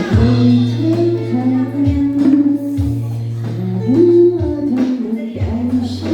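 Live band rehearsal of a Thai pop ballad: a woman sings the lead over strummed acoustic guitar, a sustained bass line and drums.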